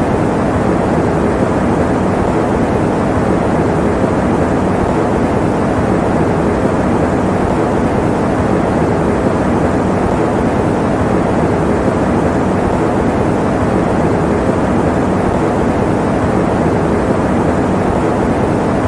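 Electric fan running with a steady, even low whoosh that does not change.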